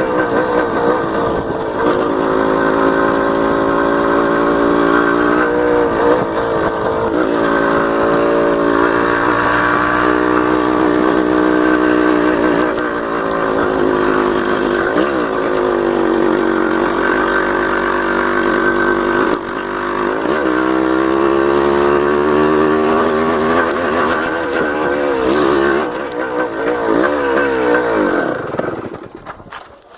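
Yamaha DT 180's single-cylinder two-stroke engine running while the bike is ridden, its revs rising and falling with the throttle. Near the end the engine sound dies away.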